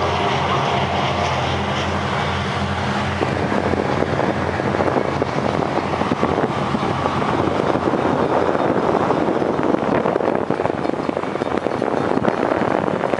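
Freight train passing a crossing: a steady low engine drone fades over the first three seconds or so, giving way to the loud, steady rumble and rapid clatter of freight cars rolling by on the rails.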